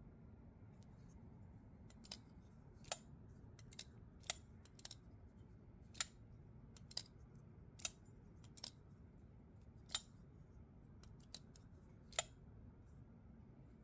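About a dozen sharp, light metallic clicks and taps, irregularly spaced roughly a second apart, from a Vosteed Thunderbird folding pocket knife being handled during disassembly.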